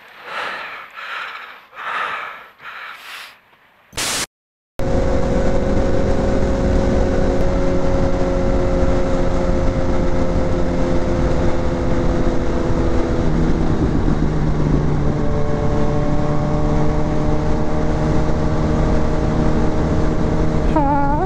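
Motorcycle engine running at a steady cruise under heavy wind rumble on a riding camera's microphone; the engine note changes about two-thirds of the way through. It is preceded by a few seconds of a man's voice and a short edit noise.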